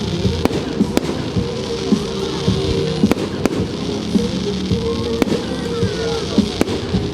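Fireworks going off in several sharp bangs at irregular intervals, over music.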